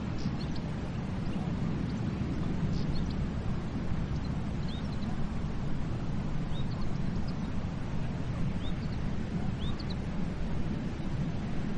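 Steady low rush of sea surf, with short, high, upward-sliding bird chirps over it about half a dozen times.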